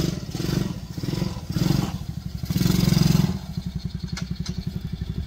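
Small gas engine of a mini Jeep running with a rapid even putter, the throttle swelling several times in the first half, most strongly around the middle, before it settles into a steadier, lower run.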